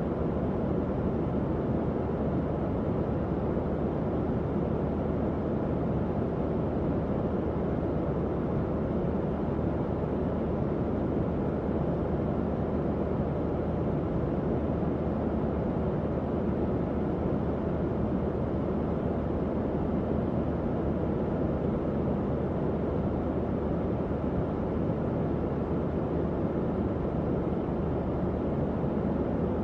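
Tower fan running steadily: an even, low whooshing rush of moving air with a faint steady hum.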